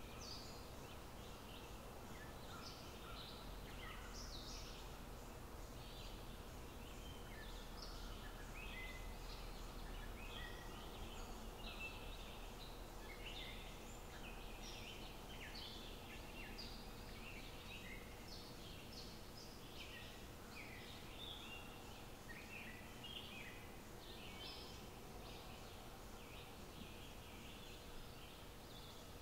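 Faint outdoor ambience with many short bird chirps scattered throughout, over a low steady rumble.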